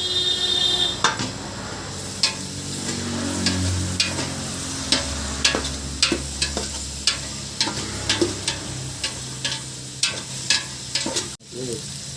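Curry frying in a pan with a steady sizzle while it is stirred, the spoon clicking and scraping against the pan at irregular intervals.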